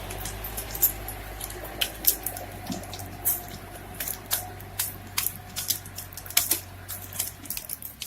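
A low steady engine hum from heavy machinery, with many irregular sharp cracks and snaps scattered over it.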